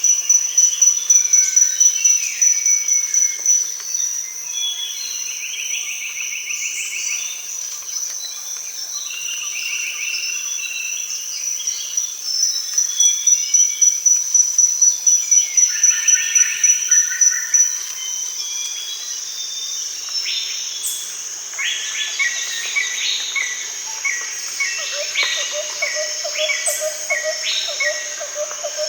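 Rainforest daytime chorus: a high, steady insect trill runs throughout and twice swells into rapid loud pulsing, with assorted bird calls over it. About two-thirds of the way in, a bird starts repeating short notes, and near the end a lower pulsing call joins.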